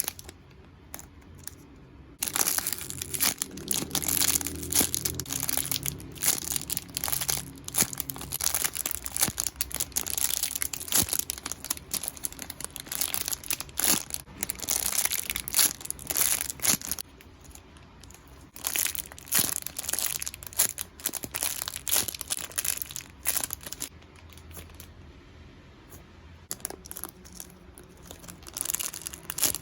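Plastic squishy packaging crinkling and rustling as it is handled, in irregular spells that start about two seconds in and ease off briefly twice later on.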